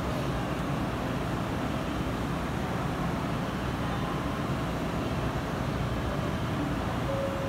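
Steady hum of a stopped 227-series electric train's rooftop air conditioner and on-board equipment at a covered station platform.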